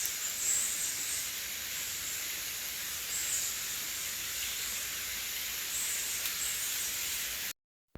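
Tropical rainforest ambience: a steady high-pitched hiss of insects, cutting off suddenly near the end.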